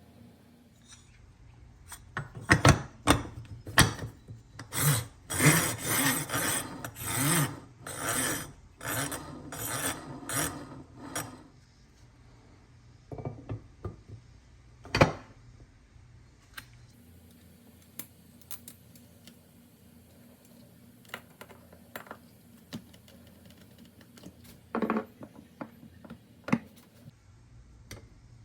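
Hand work on small hard parts: a run of rubbing, scraping strokes mixed with sharp clicks, then a single loud knock and scattered light clicks and taps.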